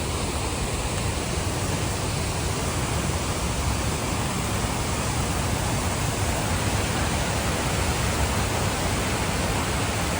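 A strong waterfall rushing: a steady, even rush of falling water.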